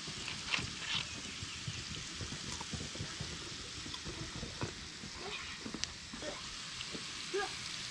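Food sizzling as it fries: a steady hiss with scattered small pops and crackles.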